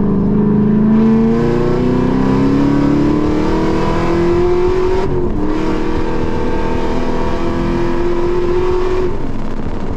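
Car engine under hard acceleration, heard from inside the cabin. It revs up through one gear, shifts up about halfway through, pulls hard again, then lifts off near the end.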